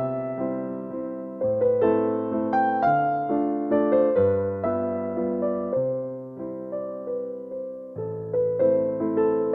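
Slow, soft piano music: single melody notes that ring and fade, over low bass notes that change about every one to two seconds.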